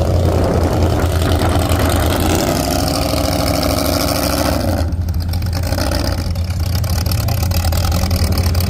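Big-engined mud truck running loud with a deep, steady rumble. The engine revs up with a rising pitch over a few seconds, then the revs drop off suddenly about five seconds in.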